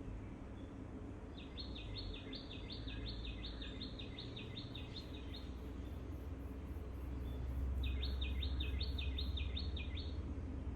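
A songbird singing two fast trilled phrases of repeated high chirps, about four notes a second. The first phrase lasts about four seconds and the second about two. Under the song runs a steady low rumble that grows louder about halfway through.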